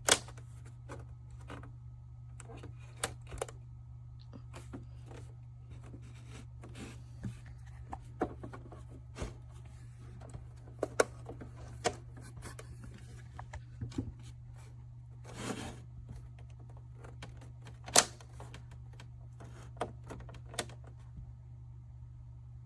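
Scattered, irregular clicks and knocks of small objects being handled, over a steady low hum, with a brief rustle about two-thirds of the way through.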